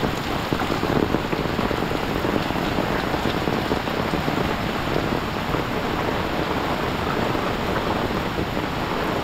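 Heavy downpour: rain falling hard and steadily, an even, unbroken hiss.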